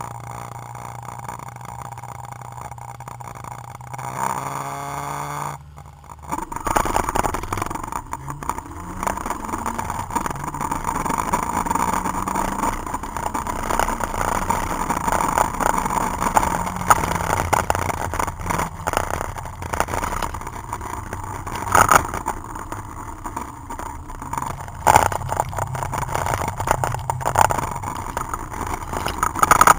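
Citroën Saxo VTS's four-cylinder engine heard from inside the cabin: idling, revved up about four seconds in, then pulling away and accelerating through the gears, its note rising and falling. A few sharp knocks come in the later part.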